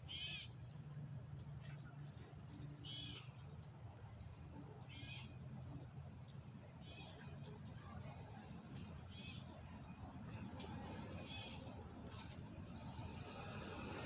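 Wild birds calling: a short call repeats every couple of seconds, with brief high chips in between and a fast trill near the end. A low steady hum runs underneath.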